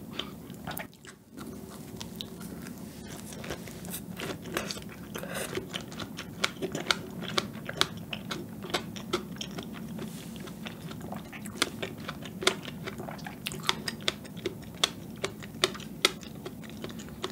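Close-miked chewing of a strawberry with soft chocolate cake, with many short wet mouth clicks and smacks, several a second.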